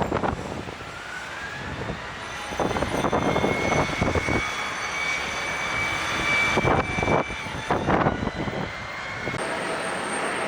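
Jet airliner's turbofan engines whining, the tone rising in the first couple of seconds and then holding steady, with gusts of wind buffeting the microphone.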